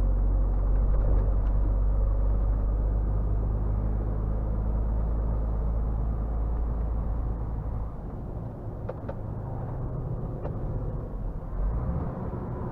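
Scania R450 truck's six-cylinder diesel engine running on the move, a steady low drone that eases off about eight seconds in.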